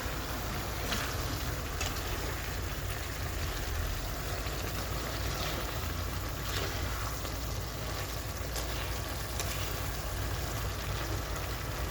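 Vegetables in a sauce sizzling and simmering in a pan on the stove, a steady hiss with a few faint pops.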